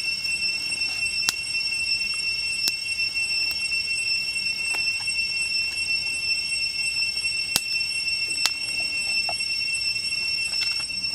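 Steady, high-pitched insect drone, typical of jungle cicadas, with a few sharp clicks or crackles scattered through it.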